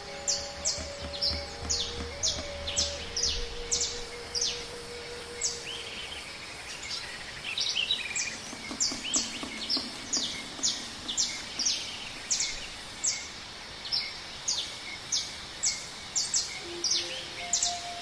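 Jungle ambience: a bird calls over and over with short, high chirps that sweep downward, about two a second, over a steady background hiss. Soft held notes sound faintly in the first few seconds and again near the end.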